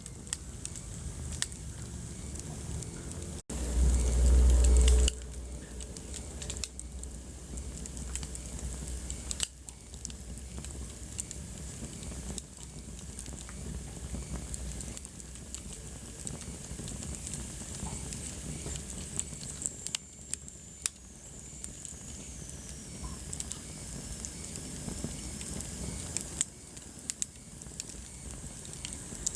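Wood fire in a fireplace crackling, with sharp pops scattered throughout. About three and a half seconds in, the sound cuts out for an instant and a loud low rumble follows for about a second and a half.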